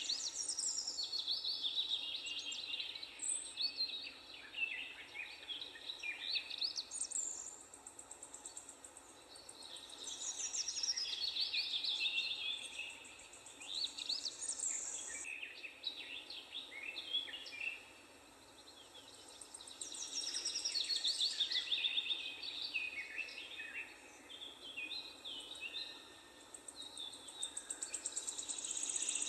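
Several songbirds singing and chirping at once: overlapping quick high trills and whistles that thin out briefly three times.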